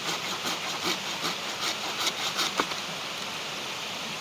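Rhythmic rasping strokes, about two to three a second, over a steady rushing hiss; the strokes stop after about two and a half seconds with a single sharp click.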